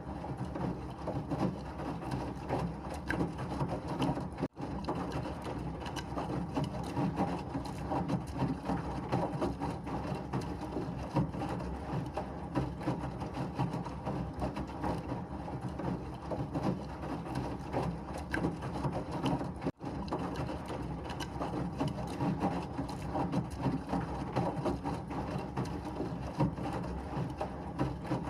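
Washing machine running steadily, a continuous even noise with two very brief dropouts, about four and a half seconds in and again about twenty seconds in.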